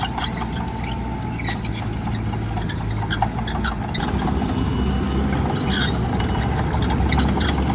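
Heavy diesel earthmoving machine running steadily under load, with many small metallic clicks and clanks; the engine grows somewhat louder over the last few seconds.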